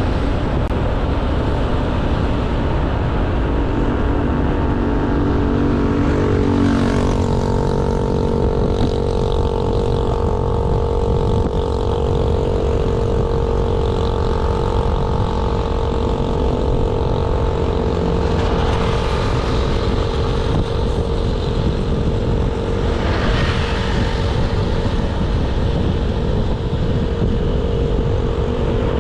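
Honda Beat 110cc scooter's single-cylinder four-stroke engine running under way, with a steady low rumble of road and wind noise. Its note steps up in pitch about six to seven seconds in as it speeds up, then holds fairly steady.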